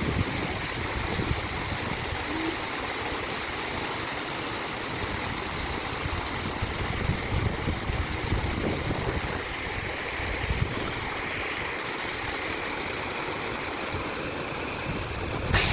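River water flowing, a steady even rush of noise.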